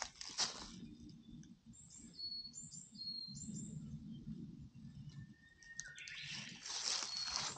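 Small birds chirping, short high calls a second or two in and a brief whistled note near the end, over a low steady rumble. A rustling noise rises over the last second or so.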